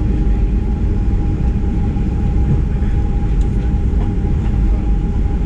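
Cabin noise inside a Boeing 737-900ER: a loud, steady low rumble from its CFM56-7B engines and airframe, with a thin steady tone above it.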